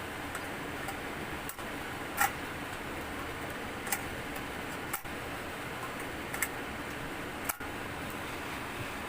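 Steady background hiss with a few small sharp clicks and taps a second or two apart, like parts and tools being handled at a workbench.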